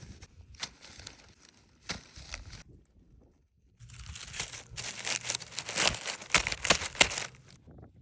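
Crinkling and crunching handling noise: a few scattered snaps, a short pause, then a longer, louder run of dense crackling and snapping about halfway in.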